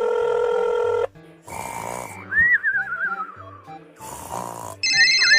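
Cartoon sound effects over background music: a held horn-like tone that stops about a second in, short rushes of noise, a wobbling falling whistle, and a bright ringing chord near the end.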